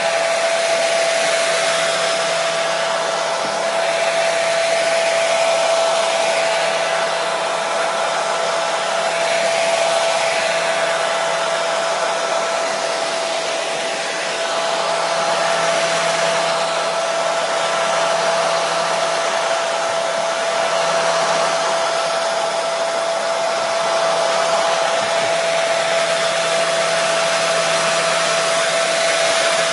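Hair dryer running steadily: a continuous blowing rush of air with a steady motor whine, the level shifting only slightly.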